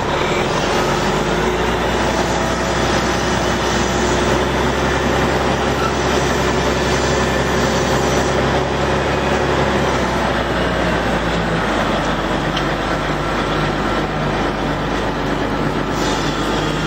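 Heavy vehicle engine running steadily, a constant low hum with a fixed engine note that holds without change.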